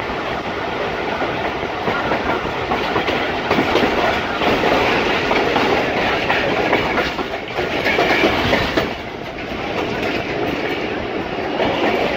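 Passenger train carriage running on the rails at reduced speed for a 50 km/h caution, heard at the carriage window: a steady rumble of wheels and track noise.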